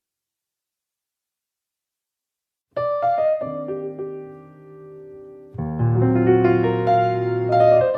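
Silence, then piano music starting suddenly about three seconds in: a few notes, then fuller, louder chords from a little past halfway.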